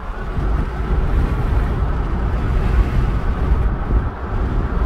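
A car being driven, with a steady low rumble of road and wind noise.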